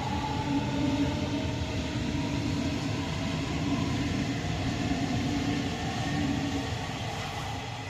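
Berlin S-Bahn electric train moving along the platform: steady wheel-on-rail rumble with a humming motor tone, dying away near the end.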